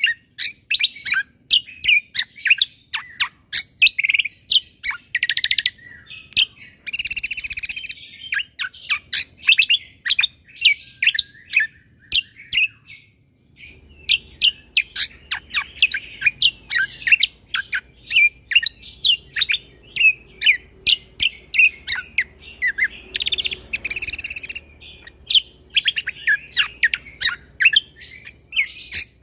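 Cucak kombo (kecial kombo) songbird singing continuously in fast, tightly packed runs of high chirps and sharp sweeping notes, pausing briefly about twelve seconds in.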